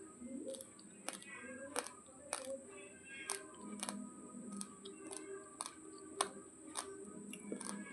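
Raw basmati rice grains being chewed: sharp, crisp crunches coming evenly, about two a second.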